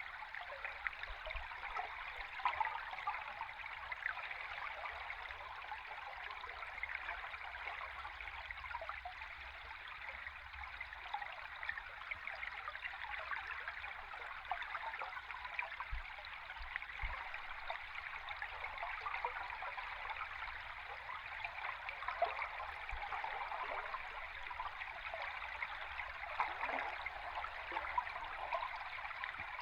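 Stream water heard from underwater: a steady rush of flowing water with a dense, fine crackle and a faint low rumble beneath.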